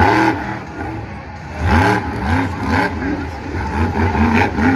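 Monster truck engine being revved in repeated throttle blips, its pitch rising and falling with each blip, several in quick succession.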